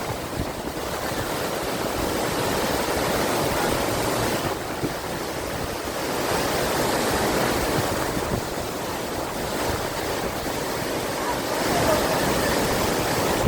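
Silver Cascade waterfall: water falling and rushing in a steady roar.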